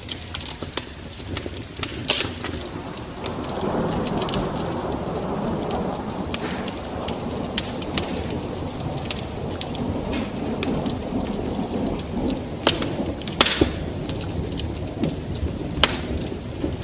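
Wood fire burning in a fireplace: irregular sharp crackles and pops over a steady rush of flames that swells about three and a half seconds in.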